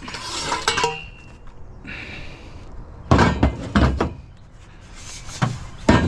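Steel trampoline frame tubes clanging and knocking together as they are handled and dropped, with ringing metal hits near the start, a short scrape about two seconds in, and heavy clunks about three to four seconds in.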